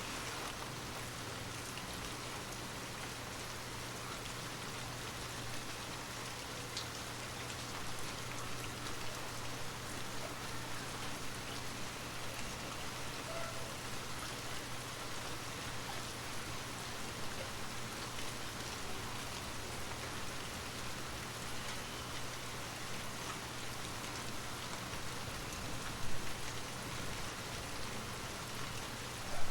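Steady rain falling on a surface, an even patter of drops, with two sharp louder hits near the end.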